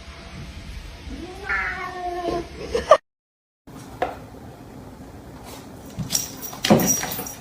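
A domestic cat meowing, one drawn-out meow with a falling pitch about a second and a half in. After a brief cut to silence, a louder noisy burst comes near the end.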